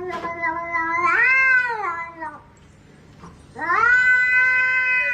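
A cat meowing in two long, drawn-out calls. The first swells up and then falls away in pitch. After a short pause, the second starts about three and a half seconds in and sinks slowly.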